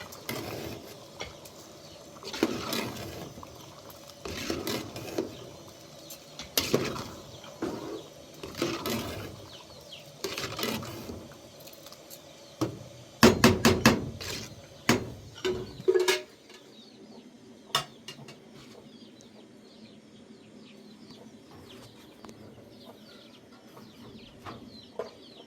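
A series of sharp knocks and clatters, roughly one every two seconds, with a quick run of strikes about halfway through, like pots or utensils being handled; they stop about two-thirds of the way in. Chickens cluck faintly afterwards.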